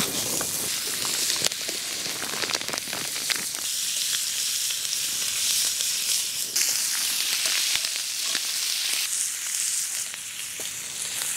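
Smoked duck sizzling in a skillet over an open wood fire, with sharp crackles from the burning firewood. The sizzle grows louder a few seconds in as the pan fills.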